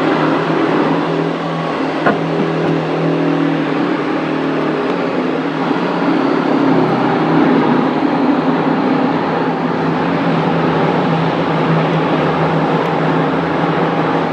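Steady, loud mechanical hum and rushing noise with a constant low tone, with a single sharp knock about two seconds in.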